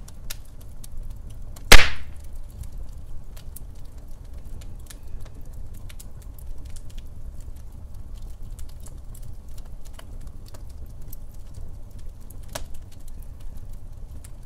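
Log fire burning in a fireplace hearth, crackling with many small scattered clicks over a low rumble, and one loud sharp pop a little under two seconds in.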